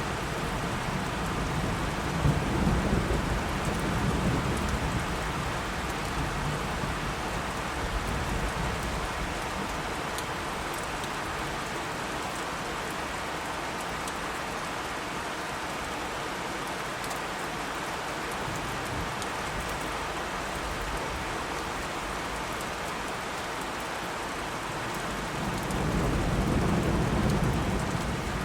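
Steady rain falling, with low rolling thunder swelling twice, a few seconds in and again near the end.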